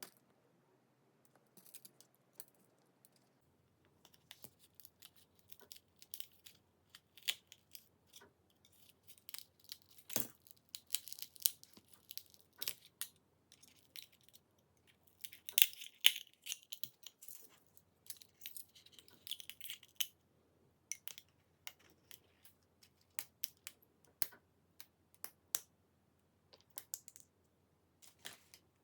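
Irregular small clicks and taps of phone parts and small tools being handled, with a few short bursts of crinkling or peeling, like plastic film, around the middle.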